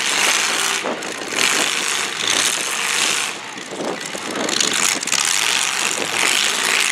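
Demolition derby cars' engines running and revving across the arena, the noise swelling and dipping over a few seconds.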